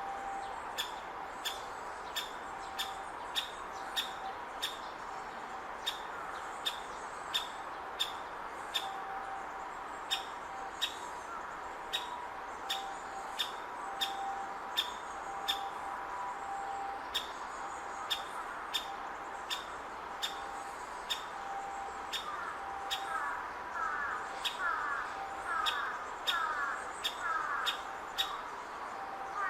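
Great spotted woodpecker nestling calling from its nest hole, a short sharp call repeated about twice a second: the chick begging while it waits for a parent to bring food. Near the end, another bird sings a string of quick falling notes.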